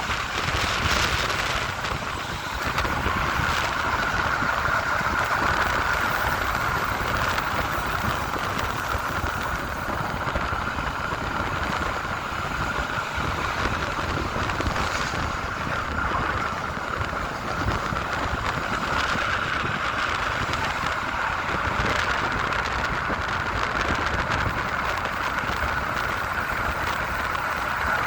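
Train running on the rails: a steady rumble and hiss with a steady high tone held above it.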